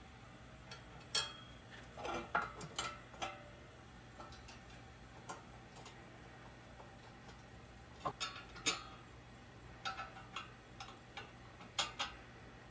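Scattered light metallic clicks and clinks of bolts and a steel mounting plate being handled and fitted by hand, in irregular clusters with short pauses between.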